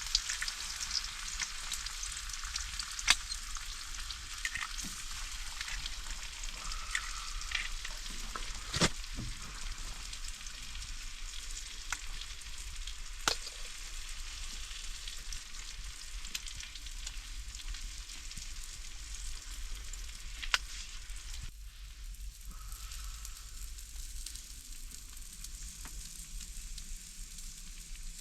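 Food frying in a pan: a steady sizzling hiss with scattered sharp pops, thinning out a little about three-quarters of the way through.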